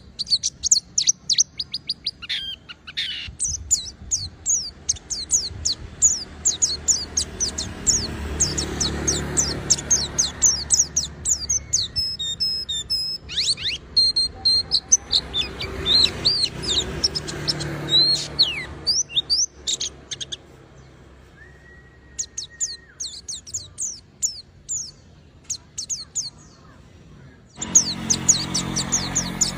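A white-eye (pleci) singing a long, fast twittering song of high, quick chirps. The song thins to a few scattered notes in the last third, then comes back at full strength abruptly near the end.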